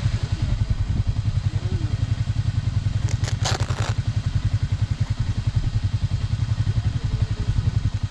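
Yamaha NMAX motor scooter running while being ridden, with heavy wind rumble on the microphone. A brief clatter about three seconds in.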